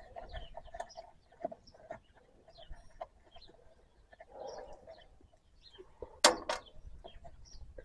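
Chickens clucking, with small birds chirping. About six seconds in come two sharp knocks in quick succession, louder than the birds.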